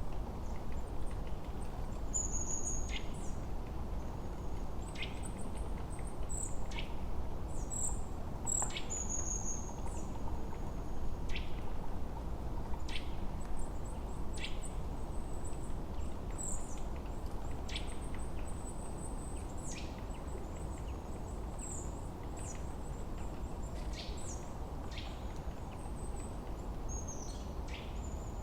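Several songbirds chirping and calling: short high chirps and quick downward-sweeping notes, scattered irregularly. Underneath is a steady low rush of background noise.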